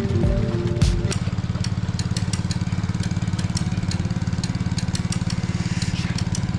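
Small boat engine running steadily with an even low pulse and light clicks. Background music cuts off about a second in.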